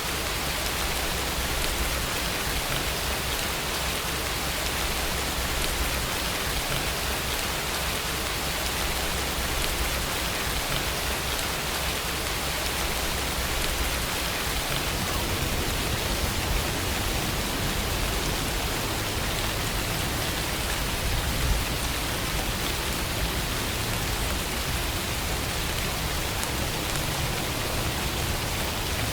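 Steady rainfall, a dense even hiss of rain falling on a surface.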